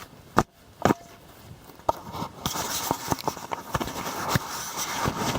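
Footsteps and rustling as a person walks: two sharp knocks about half a second and a second in, then a run of irregular steps over a rustling hiss.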